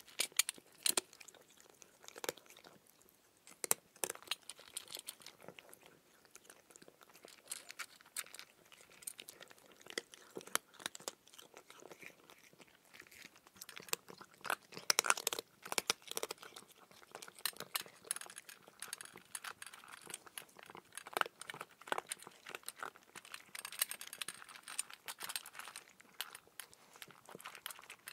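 Cat chewing and crunching food: an irregular run of sharp crunches and clicks with short pauses between.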